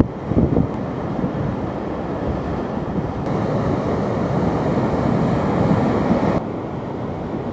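Strong storm wind buffeting the microphone in gusts, over a steady rushing roar of the storm; the noise drops off abruptly a little over six seconds in.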